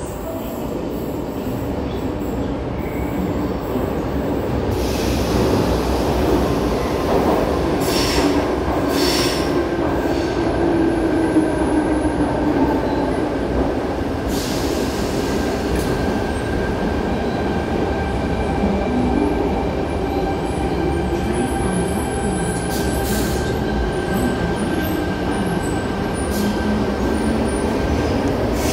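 Sydney Trains Waratah double-deck electric train running into an underground platform and braking to a stop. The rumble grows louder over the first few seconds, a motor whine falls in pitch as it slows, and a steady high wheel squeal runs through the second half.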